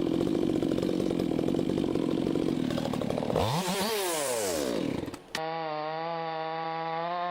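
Chainsaw engine running steadily, then revving up and dropping back over about a second and a half. After an abrupt cut, a chainsaw runs again at a steady pitch.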